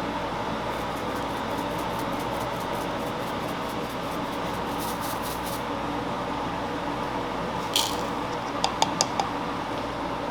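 Steady hum of a fan or kitchen machinery. A run of light rapid clicks comes in the first half, then one sharp clatter and four quick sharp clinks near the end.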